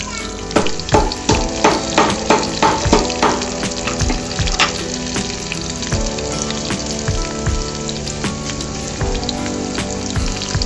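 Sliced shallots frying in bubbling hot oil in a kadai: a steady sizzle with rapid crackles, the sharpest and loudest pops in the first few seconds.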